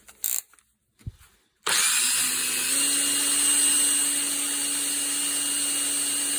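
A small electric power tool starts about a second and a half in and runs steadily with a high whine, spinning a replacement gun screw so it can be shaped and polished. A few light handling clicks come before it starts.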